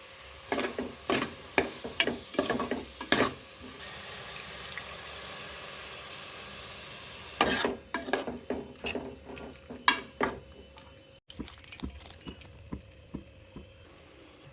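Food sizzling in a cooking pot while a spoon stirs it, knocking and scraping against the pot in two bouts of clattering strokes with a steady frying hiss between them. Near the end the hiss drops away and only lighter taps are left.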